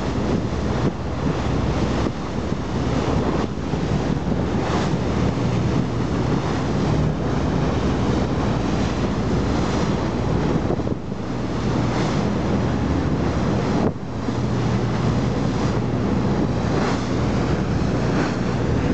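Wind buffeting the microphone over sea waves, with the steady low hum of a boat engine running underneath.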